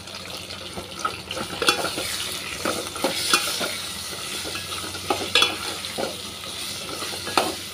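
Potatoes and garlic-ginger paste sizzling in hot oil, stirred with a metal slotted spoon that scrapes and clinks against the metal pot every second or so.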